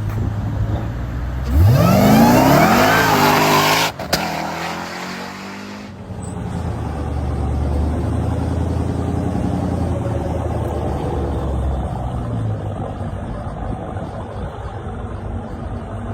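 Jeep Grand Cherokee Trackhawk's supercharged 6.2-litre V8 launching hard: a sudden loud run with the engine note climbing steeply for about two seconds, cut off abruptly. After that comes a lower, steadier engine sound.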